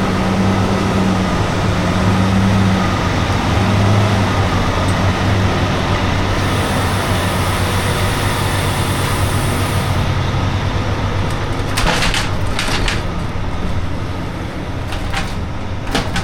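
Race transporter truck's diesel engine running at a steady idle. A high hiss comes in for a few seconds in the middle, and a few sharp clicks or knocks near the end.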